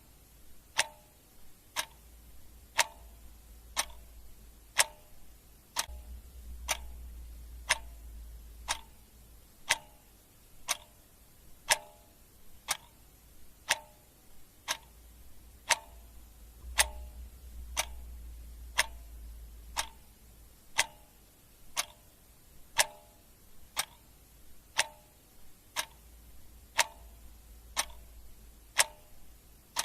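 Clock ticking steadily about once a second, with a faint low rumble underneath that swells and fades.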